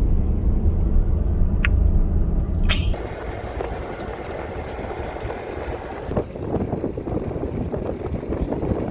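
Low road rumble inside a moving vehicle's cab, with one sharp click about two seconds in. About three seconds in the rumble stops abruptly and gives way to a quieter, rough crackling noise.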